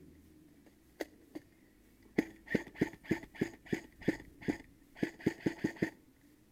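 Airsoft gun firing a quick string of single shots: two sharp cracks about a second in, then about fifteen more at roughly three to four a second, stopping near the end.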